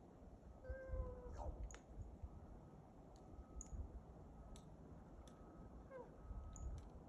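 Common raven making odd, cat-like mewing calls: a drawn-out call about a second in and a short falling one near six seconds, among scattered sharp clicks and faint high chirps.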